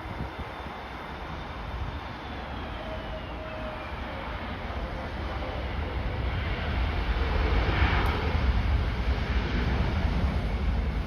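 Jet airliner arriving past the microphone, its engine whine falling in pitch as it passes, then a rush of engine noise that grows loudest about eight seconds in. Strong gusty wind rumbles on the microphone throughout.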